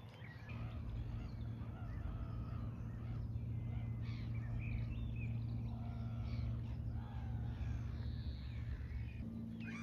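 Birds calling, crows cawing among them, over a steady low hum that starts about half a second in and changes pitch near the end.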